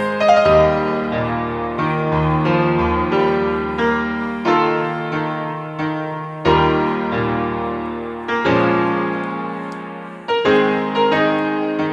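Background piano music: slow keyboard chords and notes, each struck and left to ring out.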